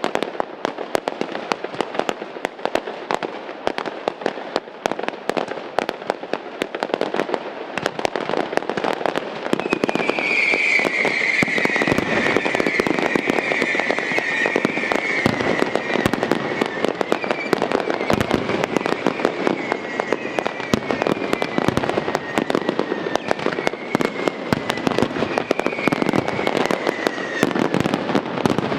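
Fireworks display: aerial shells bursting in a dense run of crackling bangs that grows louder and thicker about a third of the way in. A high, slightly falling whistle sounds over the barrage from then almost to the end.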